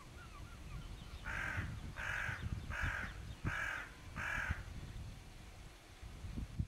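A bird, crow-like by its calls, gives five loud calls evenly spaced about three quarters of a second apart, starting about a second in. A low wind rumble on the microphone runs underneath.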